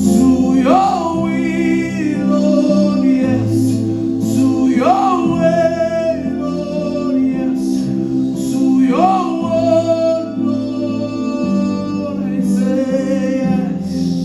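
Gospel worship song: a voice singing over steady instrumental accompaniment with held bass notes and chords, each sung phrase starting with an upward swoop about every four seconds.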